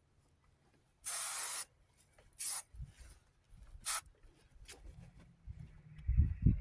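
Rust-Oleum Painter's Touch aerosol primer can spraying in hissing bursts: one longer spray about a second in, then two short ones. A low rumble comes in near the end.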